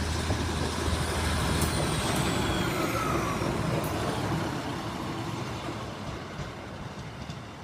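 Class 153 single-car diesel multiple unit moving through the station, its diesel engine and running noise loudest about two or three seconds in and then fading away, with faint high tones falling in pitch.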